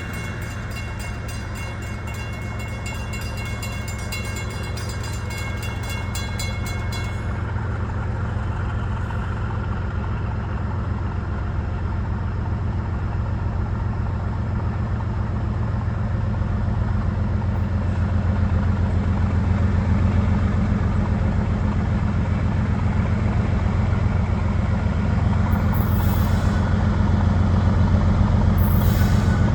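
Diesel locomotive engines running under power as a train pulls away from a stop, a steady low drone that slowly grows louder. A thin high tone stops about a quarter of the way through, and two short hisses come near the end.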